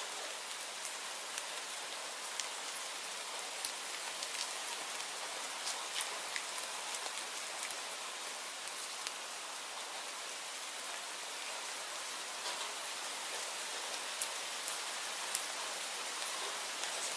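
Steady rainfall: an even hiss with scattered sharp ticks of individual drops.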